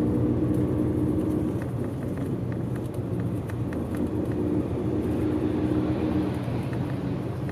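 Chiba Green Bus route bus driving along, its engine and road noise heard from inside the passenger cabin as a steady drone.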